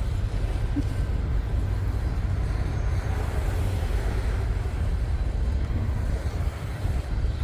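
Freight train cars rolling past on the rails: a steady low rumble.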